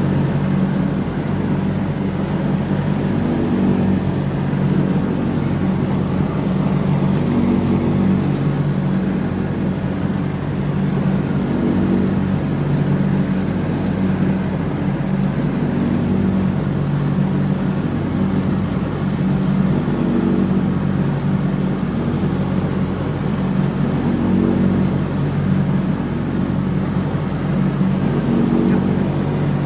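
John Deere X304 lawn tractor running steadily while mowing, its engine note swelling slightly every few seconds.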